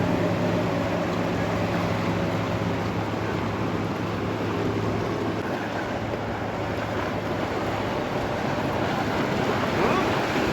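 Low, steady engine drone of a passing bait boat that fades away after about four seconds, over constant wind on the microphone and the wash of water at the inlet.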